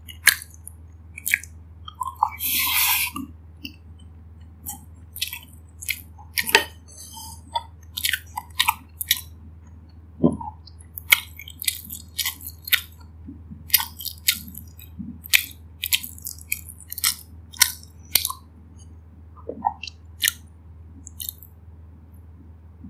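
Close-miked chewing of a mouthful of fried rice, with many short wet mouth clicks and a longer crunch about two seconds in, over a steady low hum.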